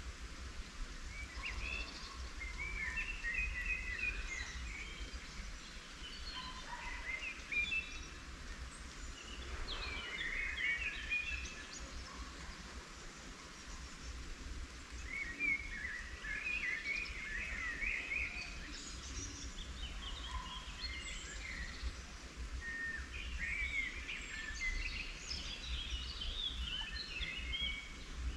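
Songbirds singing in spring, short chirping and warbling phrases coming in bursts every few seconds, over a steady low rumble.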